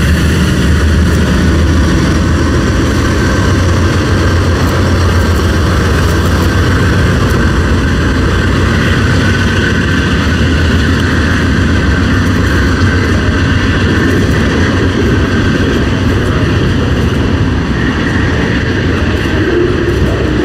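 Norfolk Southern diesel locomotives running steadily as they pass close by, then the continuous rumble of the train's cars rolling past on the rails.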